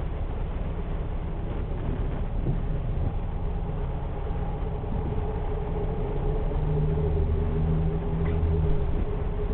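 A car's engine running steadily with road noise, growing louder for a couple of seconds from about seven seconds in.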